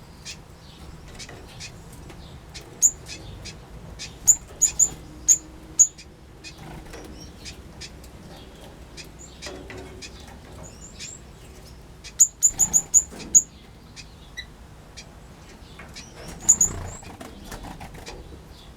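Small aviary birds calling: sharp, very high-pitched chirps come singly and in quick runs of five or six, loudest about four seconds in and again around twelve seconds, over softer chirps and ticks.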